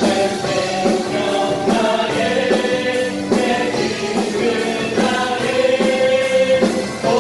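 A praise team's choir singing a worship song in held, sustained notes over instrumental accompaniment.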